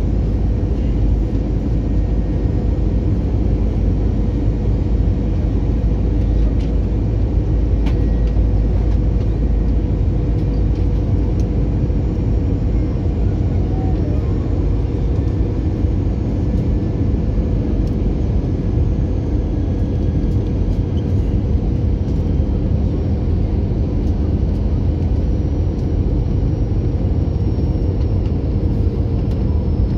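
Steady cabin noise inside an Airbus A321-200: a loud low rumble of engines and airflow with a steady hum, unchanging throughout.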